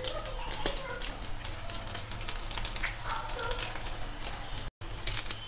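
Rice cutlets shallow-frying in hot oil: a steady sizzle with irregular crackles and pops.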